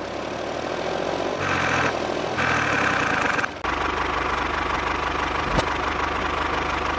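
Small motor of a handmade mini toy tractor running with a steady buzz. About three and a half seconds in, the sound breaks off briefly and resumes as a steadier buzz with a fast, even pulse.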